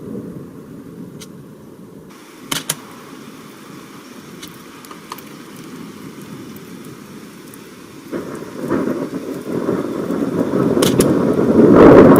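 Thunder: a low rumble that swells into a loud, building peal from about eight seconds in, with rain falling and a couple of sharp clicks.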